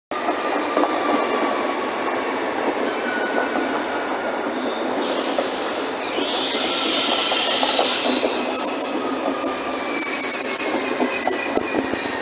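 ED250 Pendolino electric trainset rolling slowly along the platform as it pulls in to stop. Its wheels and brakes give thin, high, drawn-out squealing tones over a steady rumble, with light clicks at the rail joints. A sharper, higher squeal comes in about ten seconds in.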